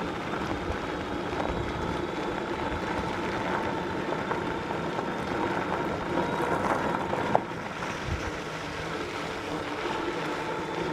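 Dual-motor electric bike riding along: a steady faint electric whine over tyre and wind noise, one tone of the whine dropping out about seven seconds in.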